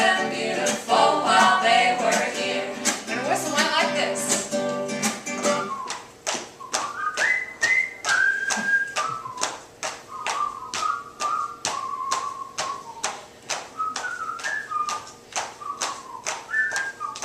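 Acoustic string band with singing plays for about six seconds and then drops out. A single whistled melody carries on alone over steady tapping, about three taps a second.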